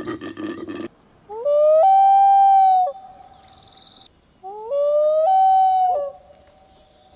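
Two loud animal calls about three seconds apart, each sliding up and then held on one steady pitch for about a second and a half before stopping abruptly.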